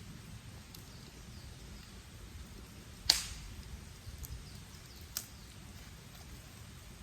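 Campfire wood popping as it burns: one loud sharp crack about three seconds in, then two smaller pops, over a low steady rumble.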